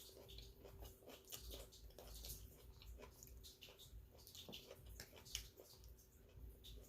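Faint close-up chewing: irregular wet smacks and small clicks of a mouth eating, over a faint steady hum.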